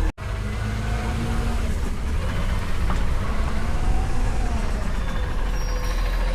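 Front-load garbage truck's engine running steadily with a deep hum, cut by a brief gap in the sound a moment in.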